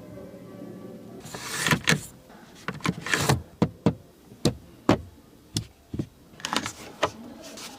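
A low steady motor hum, then about a dozen sharp, irregular clicks and knocks from the car's fittings being worked.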